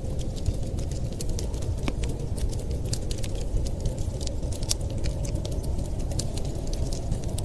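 Wood fire crackling in a fireplace: many small, irregular sharp pops and ticks over a steady low rumble.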